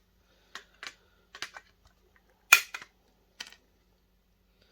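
Clips holding a video projector's lens unit together being pried and snapped off: a series of sharp clicks and snaps, the loudest about two and a half seconds in.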